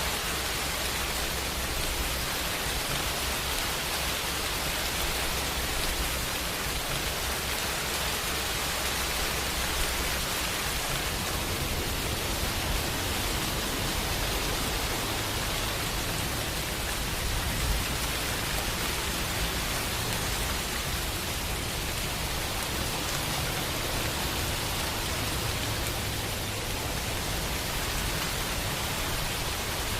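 Steady rain falling, an even unbroken hiss, with a low rumble underneath that grows a little stronger about a third of the way in.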